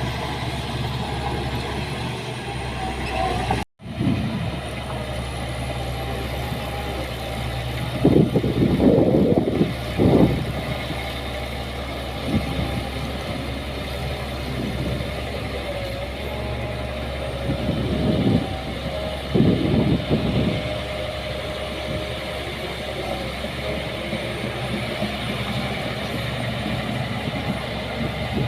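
Diesel engine of heavy earthmoving machinery running steadily, with louder surges about eight seconds in and again about eighteen seconds in. The sound cuts out for an instant near four seconds.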